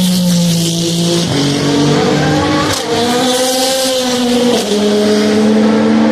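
Several Le Mans race cars' engines running together at high revs. Their notes step in pitch with gear changes, typical of cars downshifting as they brake for a slow corner.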